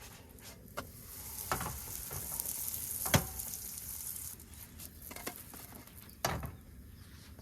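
Bread dough frying, sizzling for a few seconds as it is flipped, with several sharp knocks of a cooking utensil against the pan.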